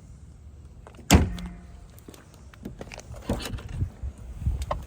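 A single sharp knock about a second in, then scattered light clicks and rustling.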